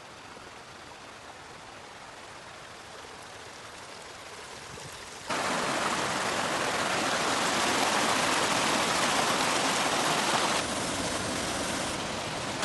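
Waterfall water rushing steadily, with no tones in it. It jumps abruptly louder about five seconds in and drops back a little near the end.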